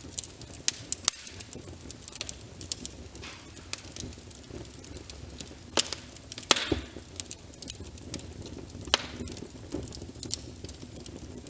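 Wood fire crackling with irregular sharp pops and snaps, the loudest about a second in and around six seconds in, over a steady soft hiss of rain.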